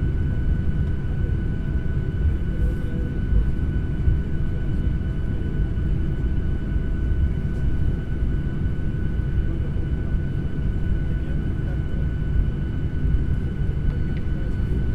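Airliner cabin noise in flight: a steady low rumble of engines and airflow, with faint constant whining tones over it.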